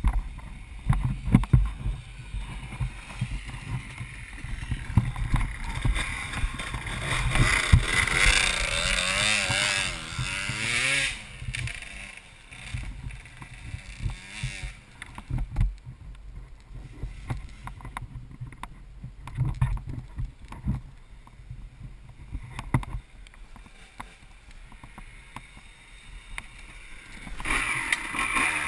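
Dirt bike engine revving up and down, loudest about eight to eleven seconds in, then running quieter before picking up again near the end. Wind buffets the microphone and low thumps come from the bumpy ride.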